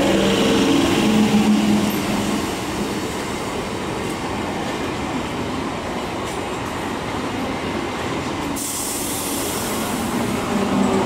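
Suburban EMU local train coaches rolling past alongside the platform, with a steady rumble of wheels on rails and a faint motor hum, a little louder in the first two seconds.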